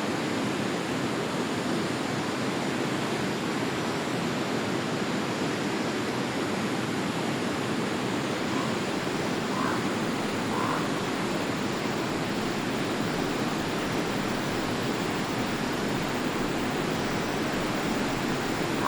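Forest river water flowing steadily, an even rushing sound, with three brief faint calls about halfway through.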